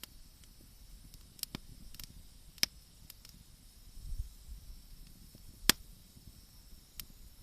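Wood fire crackling: scattered sharp pops, the loudest about two and a half and five and a half seconds in, over a faint steady hiss.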